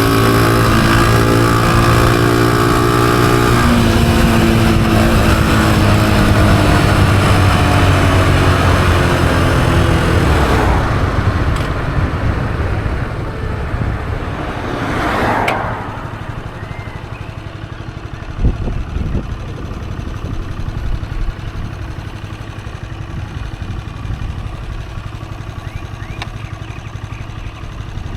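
Honda CG125's single-cylinder four-stroke engine running under way with wind noise, then easing off about ten seconds in; a brief rush of noise comes about halfway through, and from about sixteen seconds in the engine runs on more quietly and steadily, as at idle.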